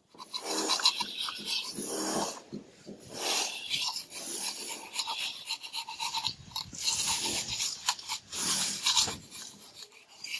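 Plastering trowel scraping and smoothing cement mortar on a wall, in repeated rasping strokes.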